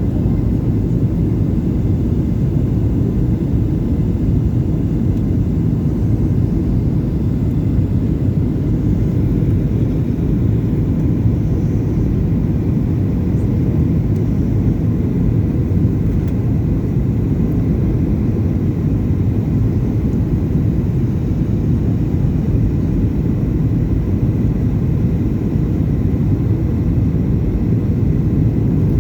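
Boeing 737-800's CFM56-7B jet engines and airflow giving a steady, unchanging low rumble, heard from on board the airliner.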